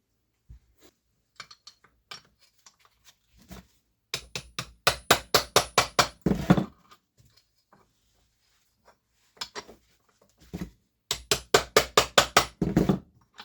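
A hammer tapping on a 10mm socket used as a drift, knocking a part out of an Eaton M62 supercharger's casing. There are two runs of about ten quick metallic taps each, about five a second, with a few lighter single knocks between them.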